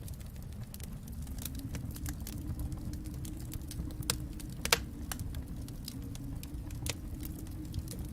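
Wood fire crackling in a fireplace: irregular sharp pops and snaps over a steady low rumble of the flames, with one louder pop a little before the middle.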